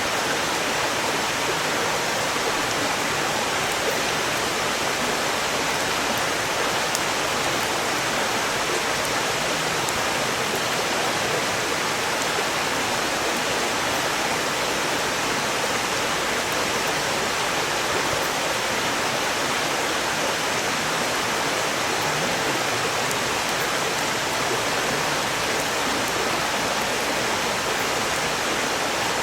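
Valley stream rushing steadily over rocks, an even wash of water sound, with a few faint crackles from burning firewood.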